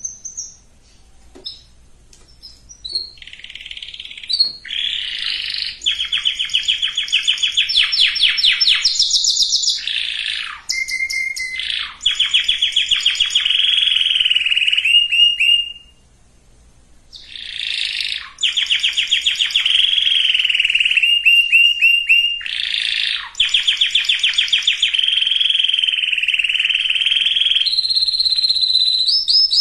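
Domestic canary singing: after a few short notes, long runs of fast trills follow one after another. The song breaks off for about a second and a half midway, then starts again.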